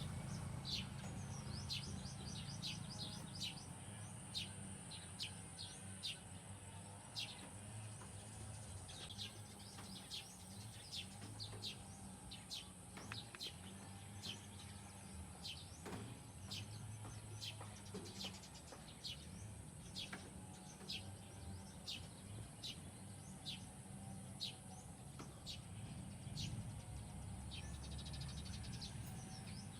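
Small birds chirping outdoors: many short, quick calls repeated throughout, over a steady high-pitched insect drone.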